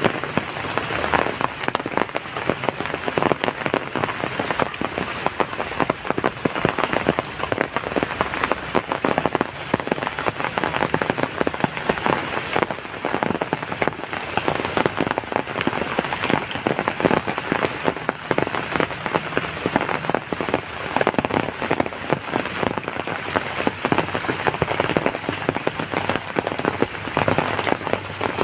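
Heavy rain falling steadily, with countless close drop impacts on a hard surface.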